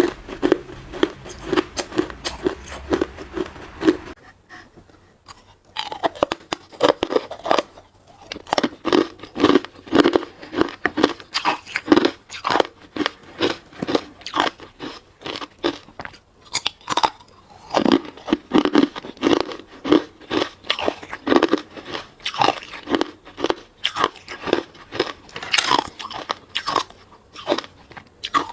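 Close-miked crunching and chewing of hard ice, in rapid repeated crunches. There is a brief lull about four seconds in, then the chewing resumes.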